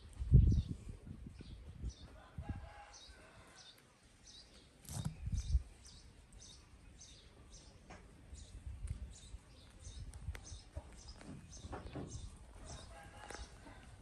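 Outdoor ambience: short high chirps repeating steadily, roughly one or two a second, with faint chicken calls twice and two low thumps, the first about half a second in and the second about five seconds in.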